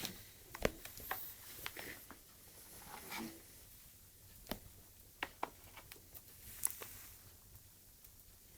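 Faint, irregular small clicks and taps, about a dozen scattered sharp ticks against quiet room tone.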